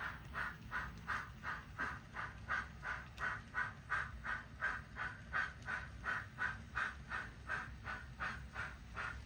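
Kato GS4 steam locomotive model's DCC sound decoder playing steady steam exhaust chuffs, about three a second, over a low steady rumble of the model running.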